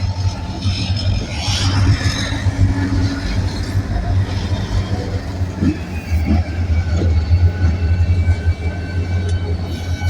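Freight train rolling past: a steady, loud low rumble, with faint high-pitched squeals from the wheels.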